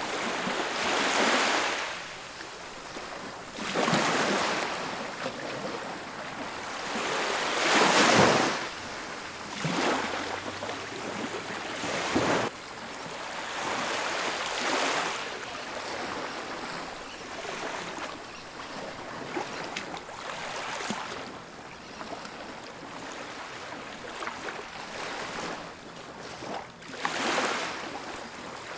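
Ocean surf on a beach: waves breaking and washing up the shore, a surge of hissing water every few seconds over a steady wash, the loudest about eight seconds in.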